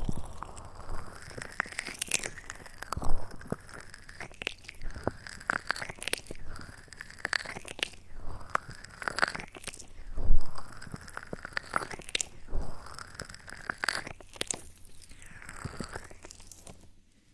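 Close-miked ASMR mouth sounds: wet clicks and smacks with soft breathy swells every second or two.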